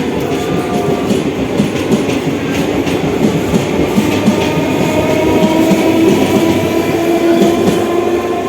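Electric multiple-unit local train running at speed, heard from on board: the wheels clatter over the rails beneath a steady whine.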